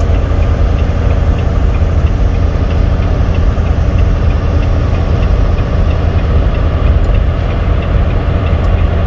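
Steady low engine and road rumble inside a semi-truck's cab while driving, with a faint, regular light ticking about two to three times a second.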